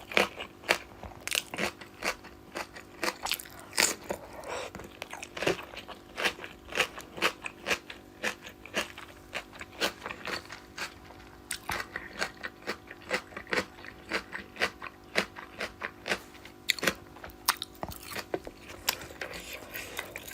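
Close-miked eating: irregular crunching bites and chewing clicks, two or three a second, from a meal of fish curry and rice with fried potato and aubergine, over a faint steady hum.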